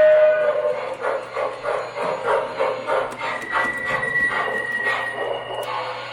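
Model steam locomotive's electronic sound system: a whistle tone ends just after the start, then steam chuffing at about three chuffs a second, fading out near the end.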